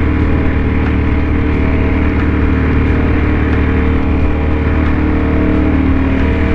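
Motorcycle engine running at a steady cruising speed: a constant, even drone that holds one pitch, with a steady rush of noise beneath it.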